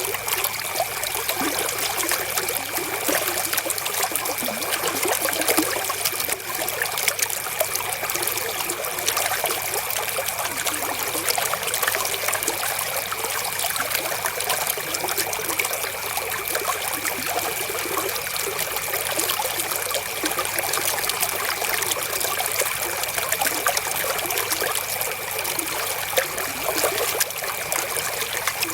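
River water flowing, trickling and splashing steadily.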